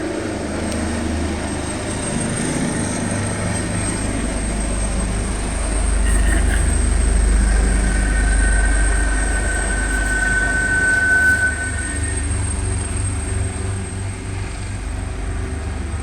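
Low rumble of a passing vehicle that builds up, holds for several seconds and fades, with a thin high steady squeal for a few seconds in the middle.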